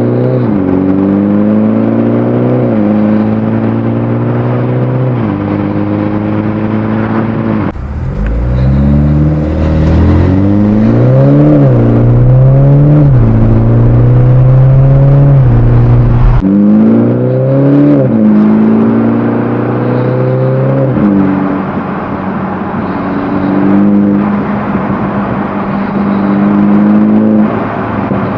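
BMW 430i's B46/B48 2.0-litre turbocharged inline-four engine and exhaust, revved several times and held at raised revs between drops, in what sound like separate takes joined about a third and about halfway through. The engine settles into steady running over the last several seconds.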